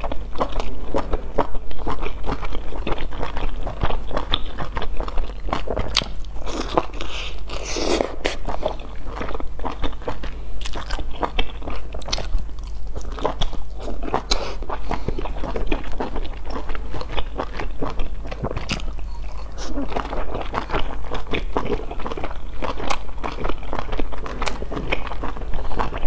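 Close-up chewing and biting of large stuffed dumplings: a dense run of small mouth clicks and smacks, continuing steadily, over a faint steady low hum.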